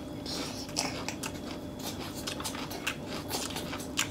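Close-miked mouth sounds of chewing a lettuce wrap of betel-leaf beef rolls (bò lá lốt), with many small wet clicks and crisp crackles, and the rustle of fresh lettuce leaves handled in the fingers near the end.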